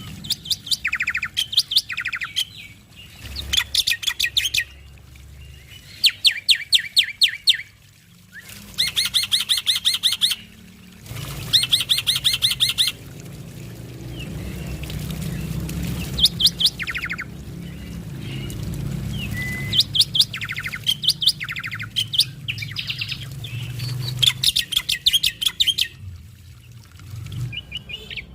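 Male black-winged starling (jalak putih) singing loud, rapid rattling bursts of sharp repeated notes, about a dozen phrases of one to two seconds each with short pauses between. A faint low steady hum runs underneath.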